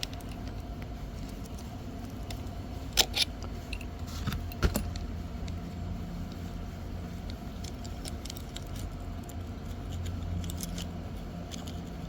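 Clicks and clinks of a hand-held chainsaw sharpener's hard parts being handled and taken off, a few sharp ones about three seconds in and again around four and a half seconds, over a steady low hum.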